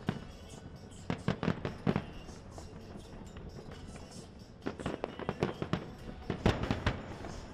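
Aerial firework shells bursting: a quick run of bangs about a second in, a quieter lull, then dense bangs and crackling from about four and a half seconds on.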